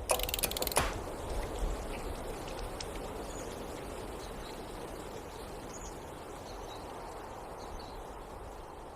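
A steady rushing water ambience, faint and slowly fading, with a few faint high bird-like chirps. The song's last drum beats end about a second in.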